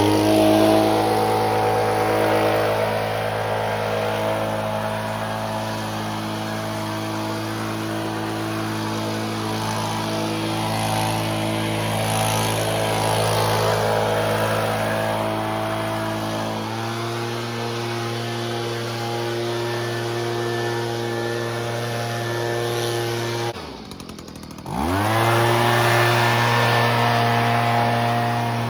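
Stihl BG50 handheld gas leaf blower, its small two-stroke engine running at high throttle and blowing air. Its pitch steps up about two-thirds of the way through. Near the end the throttle drops back for about a second, then it revs back up.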